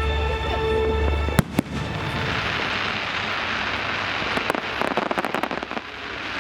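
Fireworks going off over film-score music: a sharp bang about a second and a half in, then several seconds of dense crackling.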